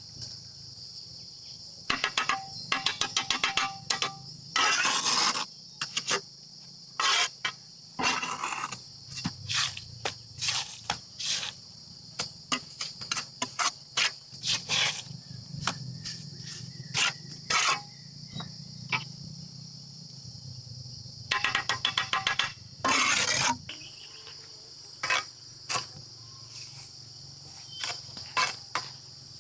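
Steady chorus of insects, with many sharp knocks, clatters and short scraping bursts of hand work on top, some in quick runs of clicks.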